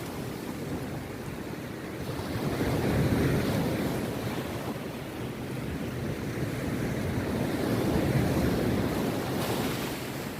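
Rough sea surf breaking on a beach, a continuous wash that swells louder twice, about three seconds in and again about eight seconds in.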